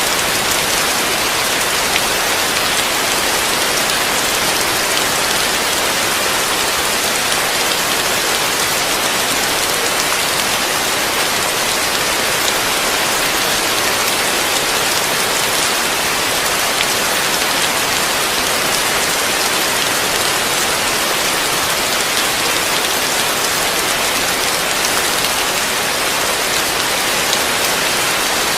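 Heavy rain falling steadily on a roof: a dense, even hiss that holds constant, with no separate drops or thunder standing out.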